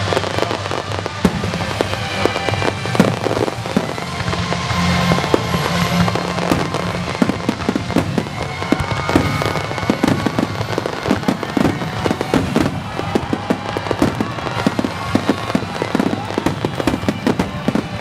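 A finale barrage of star mine fireworks: shells bursting with bangs and crackle in quick succession, coming thicker and faster through the second half. Music plays underneath.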